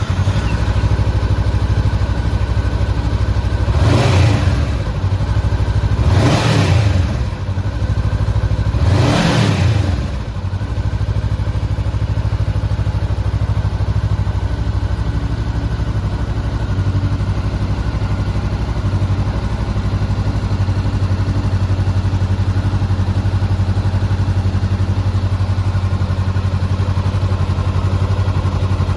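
2022 Honda CBR400R's 399 cc parallel-twin engine idling, revved three times about four, six and nine seconds in, each rev rising and falling back, then idling steadily.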